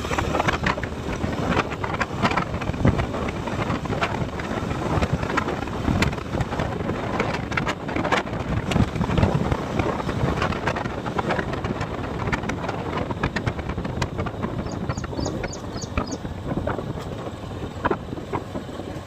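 Wind buffeting the microphone of a moving motorcycle, with the engine running underneath and frequent short knocks. A brief run of high ticks comes near the end.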